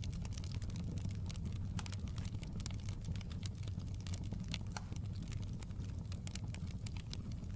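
Wood fire crackling in a fireplace: many small, irregular sharp pops and snaps over a steady low rumble of the flames.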